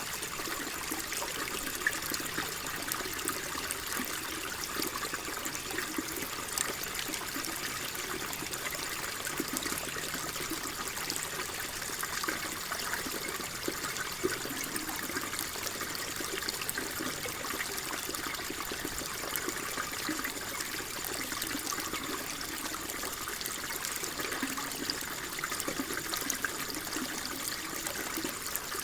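Water flowing and trickling steadily, an even splashing hiss dotted with many small ticks and bubbles.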